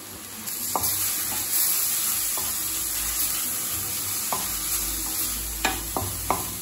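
Grated carrot, onion and spice powders sizzling in a stainless steel kadai as they are sautéed with a spatula, the sizzle swelling about half a second in when stirring starts. The spatula scrapes and taps against the pan several times, the sharpest taps near the end.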